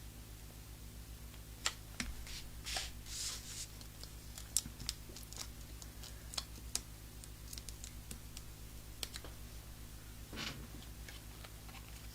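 Scattered light clicks, taps and short rustles of cardstock and paper pieces being handled and pressed down at a craft table, over a low steady electrical hum.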